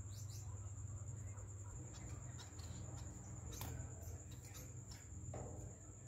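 Small cage birds chirping: short, faint chirps come every second or so, the clearest about three and a half seconds in. Under them run a steady high-pitched whine and a low hum.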